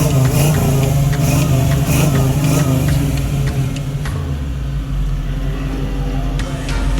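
The 1963 Chevrolet Nova's engine and exhaust running as the car is driven, the pitch shifting a little; about four seconds in the sound eases to a lower rumble.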